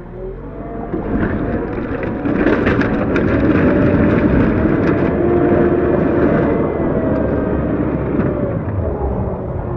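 CAT 908 compact wheel loader's diesel engine working hard while pushing snow. It grows louder a second or two in, holds high with its pitch shifting, then eases off near the end.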